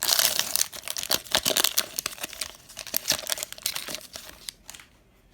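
Plastic wrapper of a basketball card fat pack being torn open and crinkled, a dense run of sharp crackles that dies away shortly before the end.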